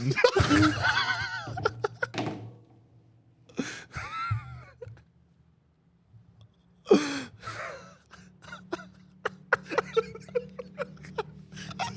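A person laughing hard in several bursts, with gasping breaths between them.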